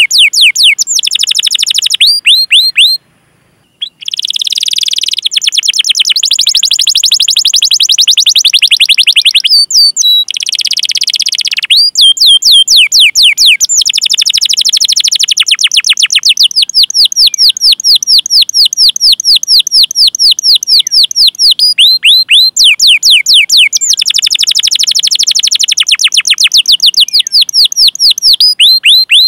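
Domestic canary singing long, rapid rolls of repeated sharp high-pitched chirps ('cuit cuit'), each note falling in pitch. The song breaks off into a second of silence about three seconds in and pauses briefly around ten seconds.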